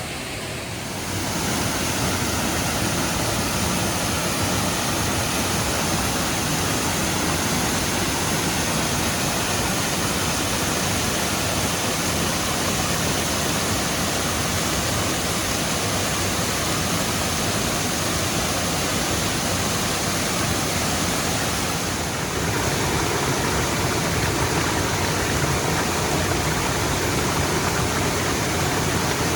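Thunder River Falls rushing steadily, spring water gushing out of the canyon wall and cascading down the cliff. The sound grows a little louder and fuller about three-quarters of the way through.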